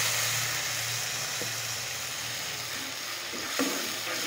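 Onion, tomato, garlic and ginger masala sizzling steadily in hot ghee in an aluminium karahi, with a metal spoon knocking and scraping against the pan a couple of times, loudest about three and a half seconds in.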